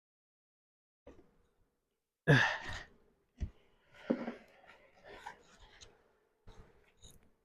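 A person's sighing exhale, falling in pitch, then a sharp knock and scattered scraping and rustling of hive parts being handled, over a faint steady hum of honeybees.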